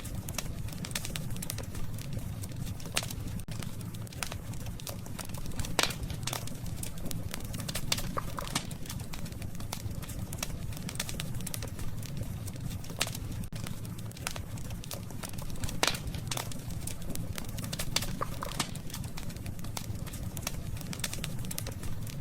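Burning wood in a campfire crackling: a steady low rumble of flame with irregular sharp pops and snaps throughout, two of the loudest pops about 6 and 16 seconds in.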